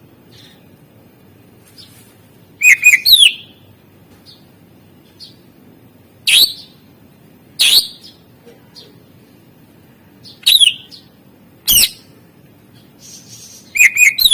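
Cucak ijo (greater green leafbird) calling in loud, short bursts of sharp whistled notes that drop steeply in pitch, six bursts a second or three apart; the first and the last are quick runs of several notes.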